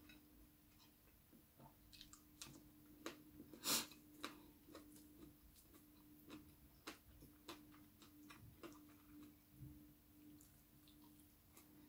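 Quiet sounds of a person eating salmon larb by hand: soft chewing and wet mouth clicks with small taps and rustles of fingers on the food, and one louder brief noise about four seconds in. A faint steady hum sits underneath.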